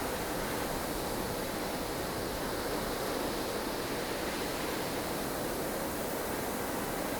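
Snow-storm wind: a steady, dense rush of blustery wind noise, even in level with no gusts standing out.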